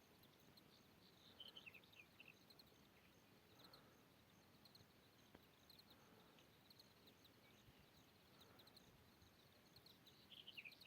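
Near silence: faint background hiss with soft, short chirps from small birds, in a cluster about a second and a half in and again near the end.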